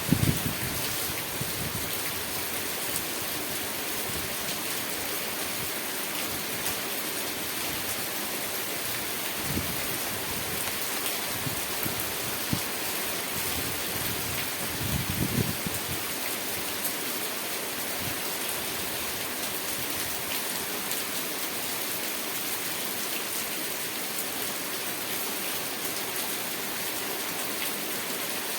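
Steady rain hissing, with a couple of brief low rumbles about ten and fifteen seconds in.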